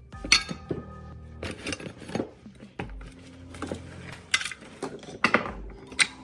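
Irregular metallic clinks and clatters of small hard parts being handled and set down, about eight of them, the sharpest near the start and near the end, over faint background music.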